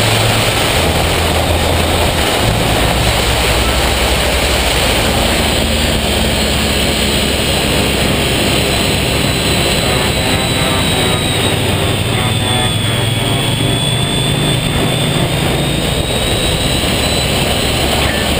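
Honda ST1300's V4 engine running under way with heavy wind rush over the helmet-mounted camera, the low engine note stepping in pitch about a second in and again about two seconds in, as with a gear change.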